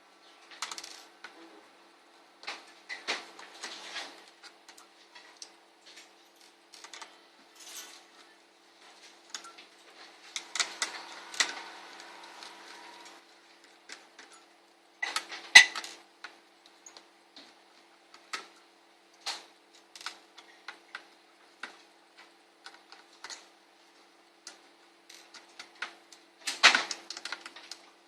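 Irregular small clicks and taps of a screwdriver on screws and of the laptop's cooling-system parts being handled. There is a brief scraping rustle near the middle, and a few sharper clicks later on.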